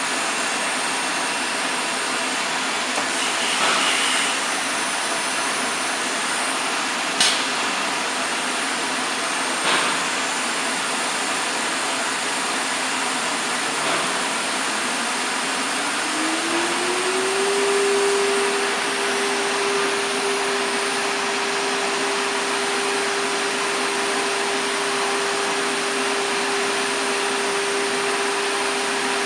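ATC CNC router running, with a steady rushing mechanical noise and a few short clicks. About halfway through, the spindle's whine rises in pitch and then holds steady as it spins up to speed.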